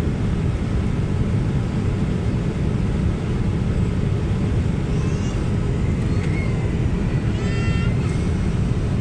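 Steady low rumble of an airliner cabin in flight, the drone of the jet engines and airflow. A few brief high-pitched calls sound over it about halfway through and again near the end.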